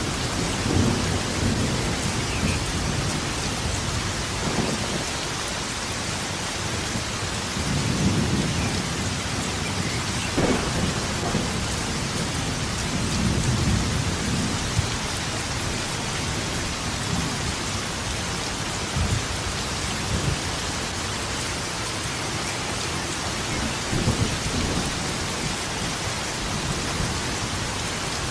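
Steady heavy rain falling, with thunder rumbling several times and a few sharp cracks of nearer thunder.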